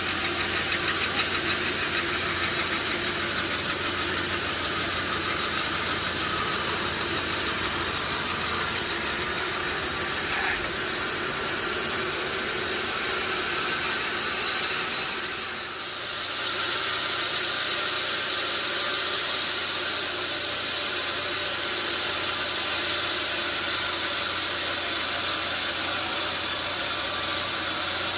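Sawmill machinery running steadily: an engine drone under a strong high hiss, easing briefly about halfway through.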